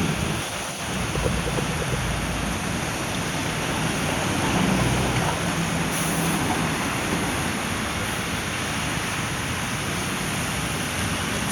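Steady rushing noise of rain, with a low rumble underneath.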